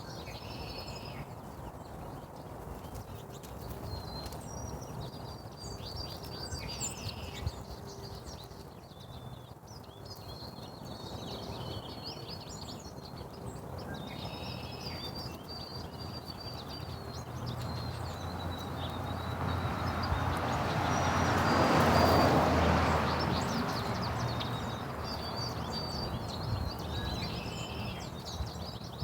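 Small birds chirping repeatedly in short high notes over a steady low hum. Partway through, a rushing noise swells to its loudest about two-thirds of the way in and then fades, like something passing by.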